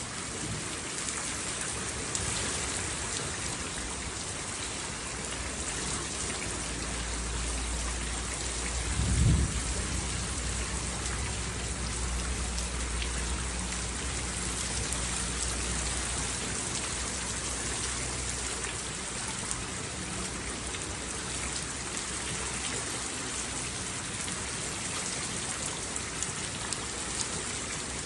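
Steady rain with a thunderclap about nine seconds in that rolls on as a low rumble for around ten seconds before fading away.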